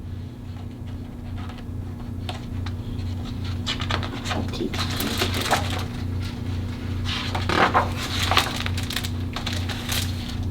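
Paper rustling and crackling with scattered clicks as a picture book is handled and its pages are turned, busiest after the first few seconds. A low pulsing hum runs underneath.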